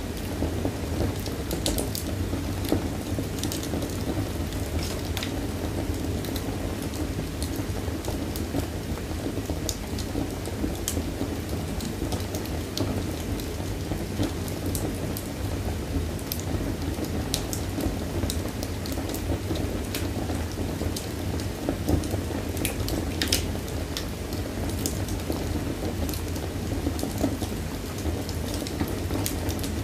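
Wood fire burning in a fireplace: a steady low roar of flames with irregular sharp crackles and pops throughout.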